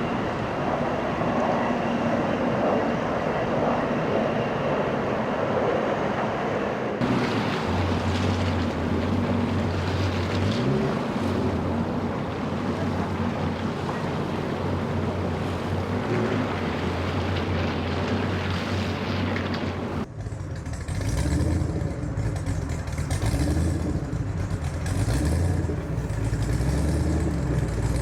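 Motor engines idling at a boat ramp, with a wash of wind and water noise at first. A steady low engine hum comes in after about seven seconds, and about twenty seconds in the sound cuts abruptly to a different engine with an uneven, pulsing note.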